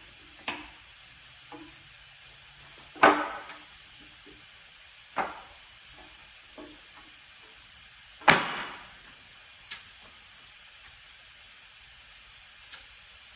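Sharp metal clanks and knocks of engine parts and tools being handled and set down, two loud ones about three and eight seconds in and a few lighter ticks between, over a steady faint hiss.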